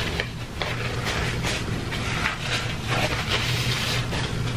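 Close-miked chewing of pizza: soft, irregular wet mouth and crunching sounds several times a second, over a steady low electrical or fan hum.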